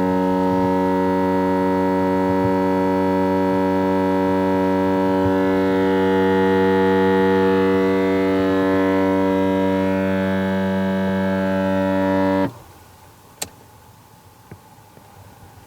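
Toyota Crown (17 series) making its abnormal noise: a steady low buzzing drone with many overtones, likened by the owner to a bullfrog's call, that cuts off suddenly near the end. A sharp click follows about a second later, then a fainter one.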